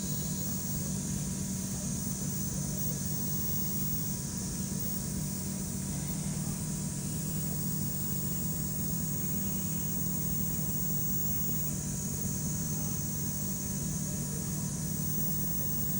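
Steady low machine hum with a constant hiss above it, unchanging throughout.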